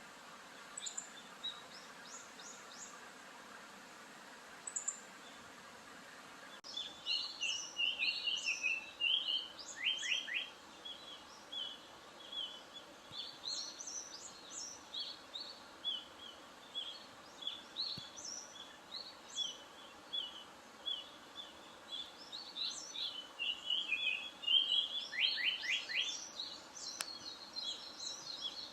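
Japanese paradise flycatcher singing: repeated whistled phrases and runs of short notes, starting about a quarter of the way in, after a few faint high chirps.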